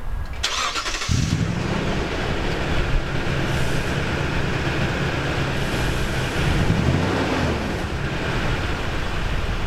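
Toyota Tundra 5.7-liter V8 running through a TRD stainless dual exhaust: after a short burst of noise, the engine catches about a second in and settles into a steady idle, with one brief rev blip around two-thirds of the way through.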